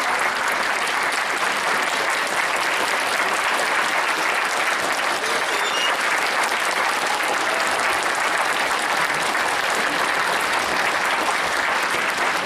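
Concert audience applauding steadily, a dense and continuous clapping.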